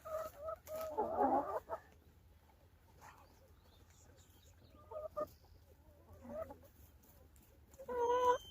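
Chickens clucking: a run of calls in the first two seconds, a few short ones in the middle, and another short run near the end.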